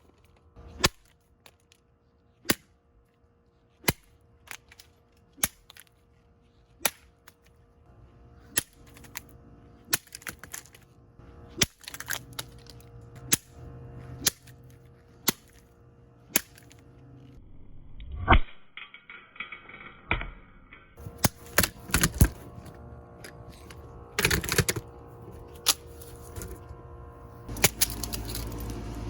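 A Pelonis 16-inch table fan being smashed: sharp strikes land about once a second, then come faster and more jumbled later on, with breaking and cracking over a faint steady hum.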